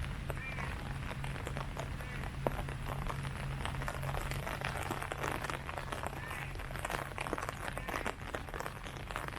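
Rain falling on tree leaves, many separate drops ticking and pattering over a steady wash, with a steady low hum underneath.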